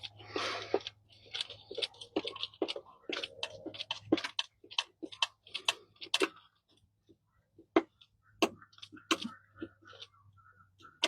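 Irregular clicks and clinks of hand tools and parts being handled during work on the truck, over a low steady hum that stops near the end. A louder knock comes right at the end.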